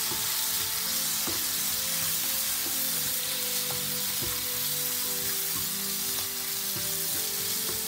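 Onion and spice masala frying in a non-stick pan: a steady sizzle while a wooden spatula stirs and scrapes through it, with a few light knocks of the spatula. Background music with held notes plays underneath.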